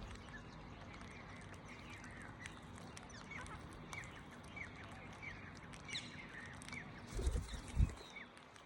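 Birds chirping: many short, downward-sliding chirps, several a second, over a steady background hiss. Two low thumps come near the end.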